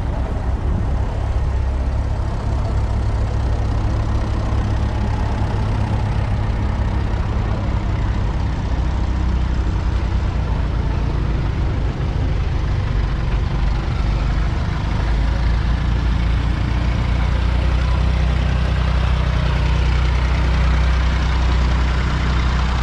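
2021 Fendt 724 Vario tractor's 6.1-litre six-cylinder diesel engine running steadily with a deep drone, growing a little louder about two-thirds of the way through.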